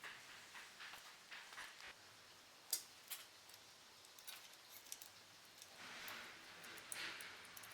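Faint scattered clicks and taps of small parts and tools being handled, with one sharper click a little under three seconds in, and a soft rushing hiss near the end.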